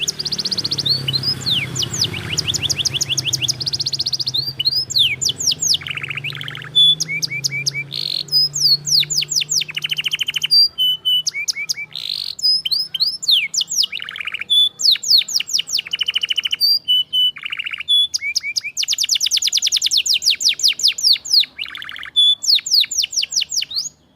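Domestic canary singing a long, fast song of rapid trills and repeated chirped phrases. This is the kind of recording played to coax a canary that has stopped singing. The song cuts off abruptly at the end.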